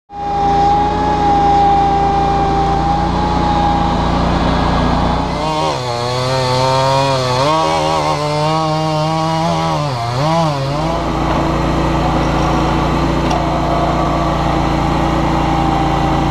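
Garden tractor engine running steadily. For about five seconds in the middle its speed drops and wavers, then it settles back to a steady run.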